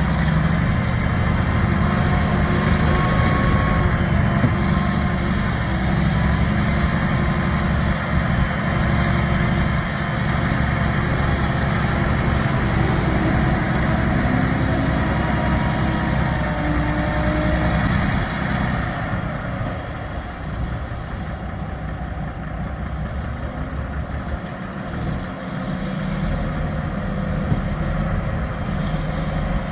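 Peterbilt 387 dump truck's diesel engine running steadily, a continuous low rumble; a hiss higher up fades out about two-thirds of the way through.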